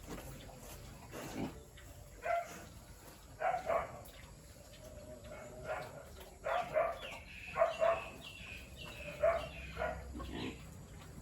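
A run of short animal calls, about a dozen spread over several seconds, some falling in pitch.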